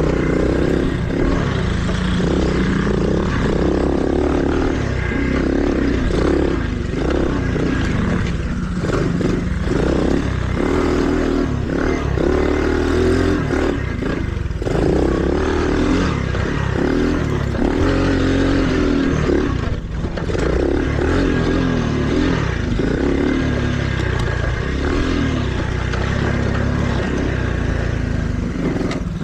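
Small mini-bike engine running hard on a dirt trail, its revs rising and falling as the rider throttles on and off, with the bike rattling over rough ground.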